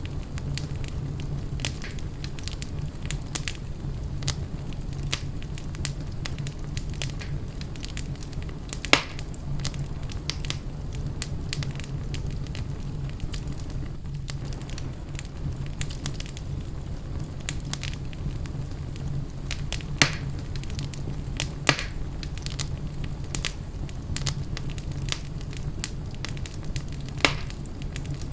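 Wood fire burning in a fireplace, crackling and popping over a steady low rumble, with a few louder pops scattered through.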